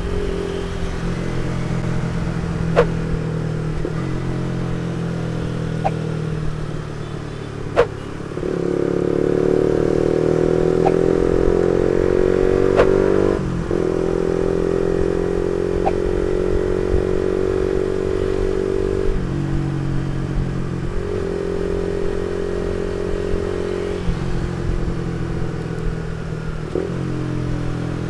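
Suzuki GSX-R150's single-cylinder engine through an R9 Misano aftermarket exhaust, riding along. The engine note steps up and down through several throttle changes, loudest for a few seconds from about eight seconds in, with a few sharp clicks.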